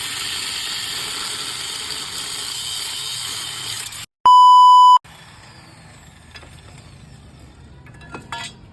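A loud, steady hiss for about four seconds, broken off by a short gap and a very loud single-pitch beep lasting under a second. After the beep comes a much quieter low running noise with a few light clicks.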